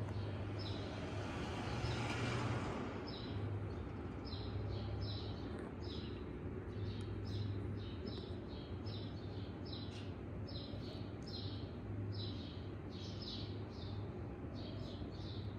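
Small birds chirping over and over in short, rapid notes, about two to three chirps a second, over a low hum that swells and fades. A brief whoosh of noise rises about two seconds in.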